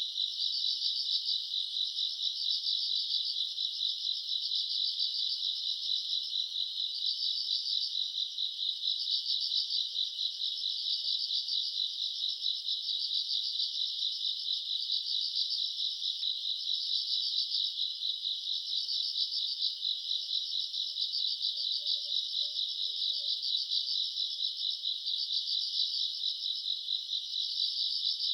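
A summer-night chorus of many grass insects chirping together in a dense, steady, high-pitched pulsing trill that swells and fades every second or two.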